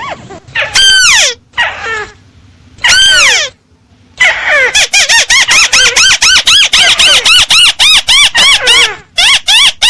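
Looped bird-lure recording of a tikusan (small crake) call. A couple of separate squealing notes sweep down, then from about four seconds a fast run of arched notes, each rising and falling, comes about five a second.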